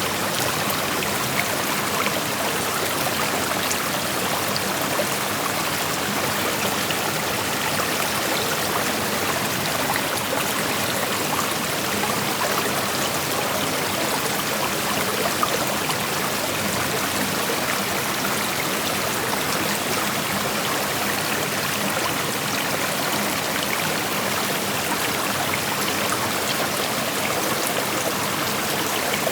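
Shallow creek flowing over rocks: a steady rushing and babbling of water with small trickles, even throughout.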